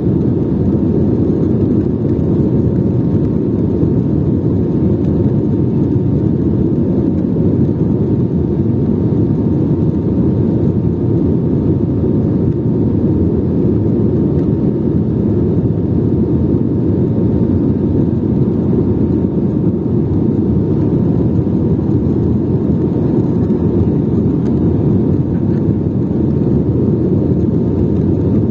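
Airliner jet engines making a steady, unchanging low rumble with a faint steady hum above it.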